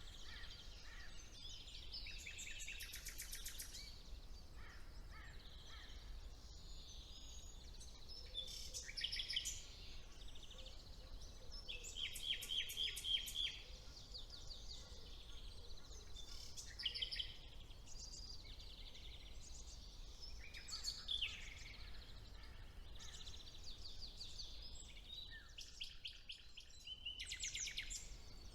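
Songbirds singing in a spring woodland, several at once, with bursts of fast repeated trilling notes every few seconds over a faint steady low rumble.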